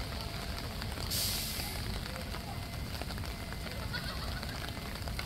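Outdoor water play area: a steady wash of spraying and splashing water with faint children's voices, and a brief burst of spray hiss about a second in.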